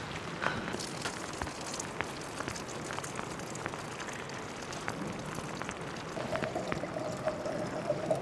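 Steady rain falling, with many scattered ticks of single drops. From about six seconds in, a faint wavering tone sounds over it.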